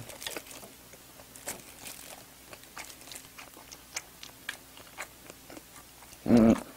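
Chewing a mouthful of food close to the microphone, with many small scattered mouth clicks. About six seconds in there is a short, loud hum of voice.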